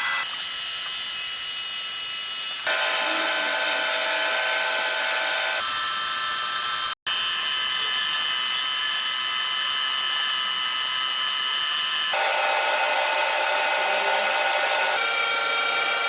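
Machine tool cutting metal, a lathe by the video's tags. It gives a steady high whine with several ringing tones, which changes abruptly every few seconds as one machining shot follows another, and drops out for an instant about seven seconds in.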